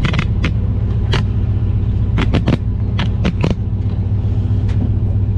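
1985 Ford F250's engine idling steadily, with a series of sharp clicks and clacks, several in a quick run about two to three seconds in.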